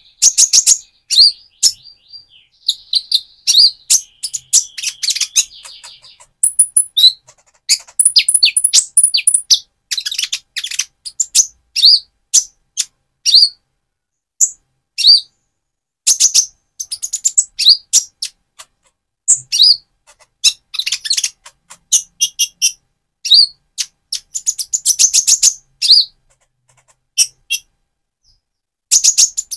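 Purple-throated sunbird (Leptocoma sperata) singing: quick bursts of sharp, very high chirps and short buzzy trills, with brief pauses between phrases.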